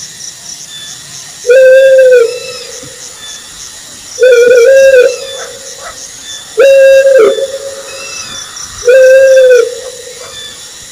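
Owl hooting: four loud, whistle-like hoots on one steady pitch, each under a second long and about two and a half seconds apart.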